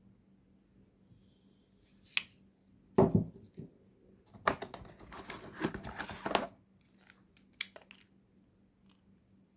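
Packaging being handled: a sharp click, then a heavy knock about three seconds in, followed by a couple of seconds of rustling and crinkling of wrapping, and a few short clicks near the end.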